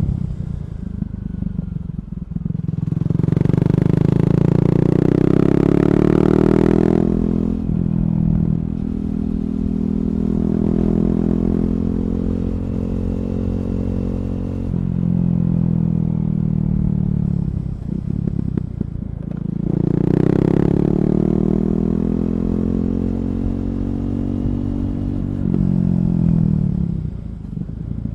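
KTM Duke 390's single-cylinder engine breathing through an Akrapovic slip-on exhaust with the catalytic converter removed, heard under way. The bike pulls hard on the throttle twice, around three seconds in and again around twenty seconds, and eases off and cruises in between.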